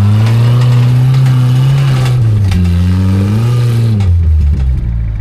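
Old Jeep Cherokee's engine revving hard under load. It climbs in pitch, sags briefly about two seconds in, revs up again, then drops back toward idle about four seconds in.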